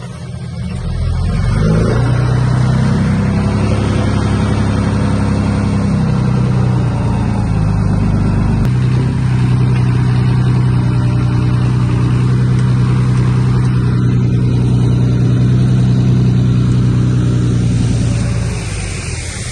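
Heavy diesel engine of earthmoving machinery running hard under load: it revs up about a second in, sags in pitch briefly in the middle, holds steady, then eases off near the end.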